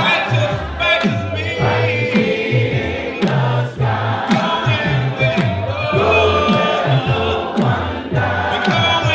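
Gospel choir singing over a live band, with a steady beat of drums and bass.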